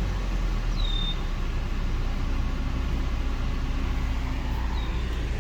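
2011 VW Eos 2.0-litre four-cylinder engine idling steadily. The scan has logged misfires on cylinders 2 and 3, but the engine seems to be running fine. Two short high chirps sound over it, about a second in and near the end.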